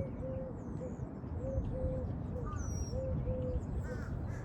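Birds calling: a short, low whistled note repeated about twice a second, some notes held longer, with a few faint high chirps from small birds over a steady low rumble.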